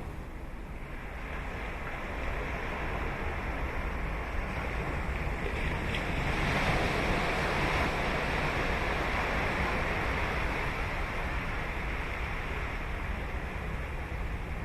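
Ocean waves breaking on a sandy beach, one surge swelling to its loudest about halfway through and easing off, over a low rumble of wind on the microphone.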